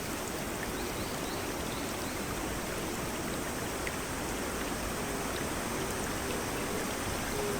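Steady, even hiss of falling rain. A faint low steady tone fades in near the end.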